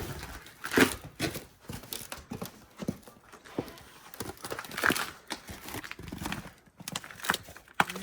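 Footsteps crunching through fresh snow, about two steps a second, with the rustle of clothing.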